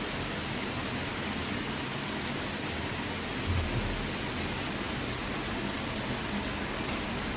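Steady, even hiss with no pitch to it, broken by a soft low knock about halfway through and a brief sharp tick near the end.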